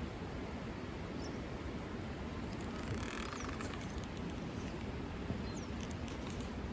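Steady outdoor background noise with three short, high, falling bird chirps spread through it and a few faint scattered clicks.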